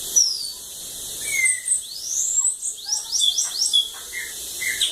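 Bananaquit (sibite) singing: a run of high, thin chirps and quick sweeping notes, with a fast string of rising notes about three seconds in.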